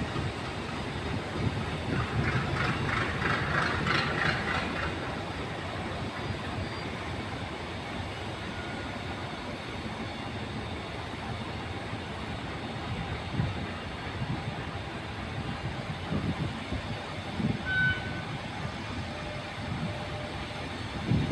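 Passenger train rolling slowly along the track, with a steady running noise and irregular low knocks from the wheels.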